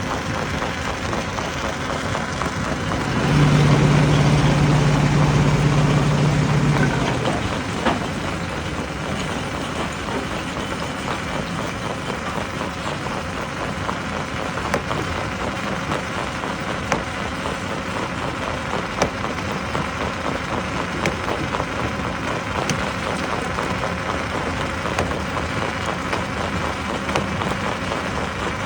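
Stone crusher running: a steady mechanical rumble and rattle with scattered sharp knocks. About three seconds in, a loud low steady hum joins it for about three and a half seconds.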